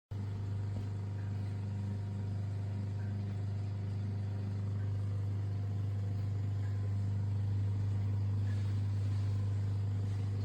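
A small electric motor humming steadily at one low pitch, with no change in speed, cutting in abruptly at the start.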